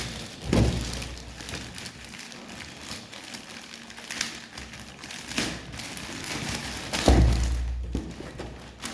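Handling noise from an unboxing: two dull thuds, about half a second in and the louder about seven seconds in, with rustling and small knocks between.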